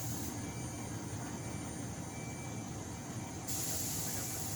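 Steady low rumble of idling fire truck engines, with a high hiss that drops away just after the start and comes back about three and a half seconds in.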